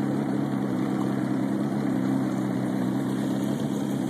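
Motorboat engine running at a steady speed, a constant even drone.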